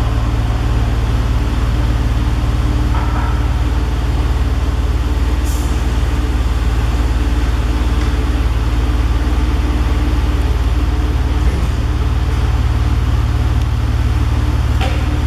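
An engine running steadily: a loud, even low drone with a few faint ticks over it.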